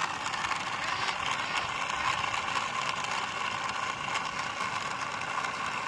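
Small electric motors of a home-built Lego boat whirring steadily as they drive its two propellers.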